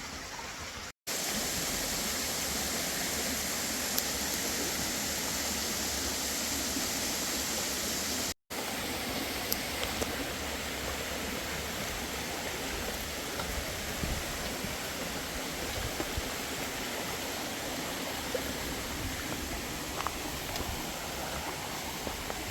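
Steady rush of flowing water, with two brief dropouts to silence about a second in and about eight seconds in.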